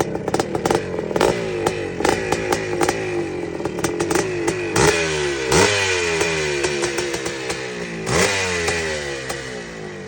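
Vintage two-stroke motocross bikes running hard, their engine pitch dropping again and again between sharp revs, with clicks and clatter throughout.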